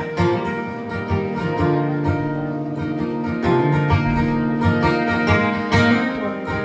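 Acoustic guitar playing a song's instrumental intro live, strummed and plucked chords ringing on.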